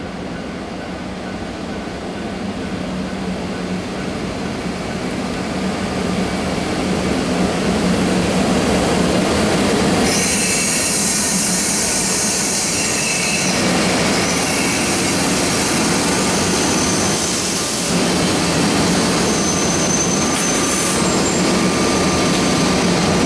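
A pair of EF64 1000-series electric locomotives hauling tank wagons run in and slow to a stop, with a steady hum that grows louder as they draw near. From about ten seconds in, high squealing wheels and brakes join, with hissing.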